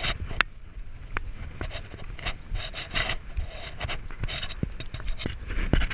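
Scraping and rubbing against a camera worn by a moving dog, with irregular sharp clicks and short rasping bursts.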